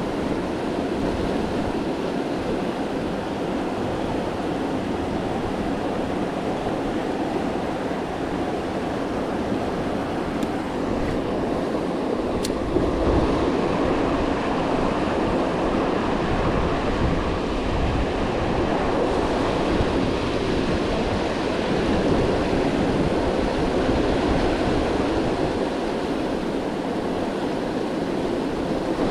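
Steady rush of river water pouring over a waterfall, with wind buffeting the microphone.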